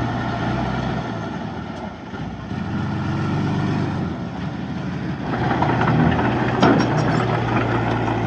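Heavy diesel engine running steadily, growing louder and fuller about five seconds in, with a single sharp clank a little later.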